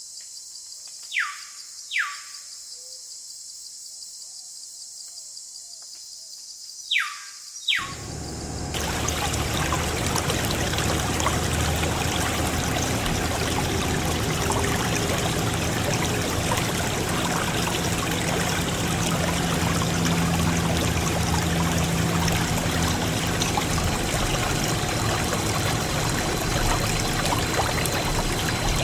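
Water pouring in a steady, heavy stream. It starts suddenly about eight seconds in, with a low hum beneath it. Before that there is only a faint high hiss and four short swishes: two near the start and two just before the water begins.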